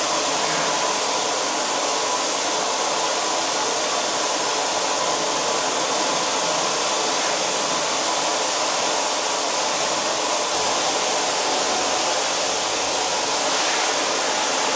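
Electric car-drying air blower running steadily, a constant rush of air with a faint steady whine, blowing standing water off the car.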